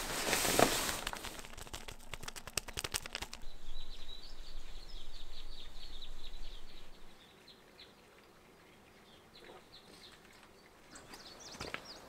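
Rustling noise with rapid clicks that cuts off abruptly after about three seconds. Then a small bird gives a quick series of high chirps for a few seconds, and faint outdoor quiet follows.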